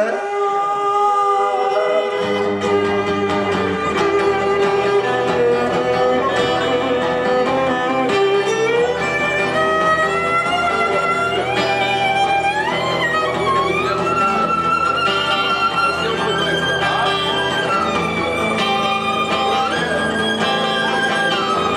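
Instrumental break on violin and guitar: the violin plays a sustained melody with slides between notes, and the guitar accompaniment comes in underneath about two seconds in.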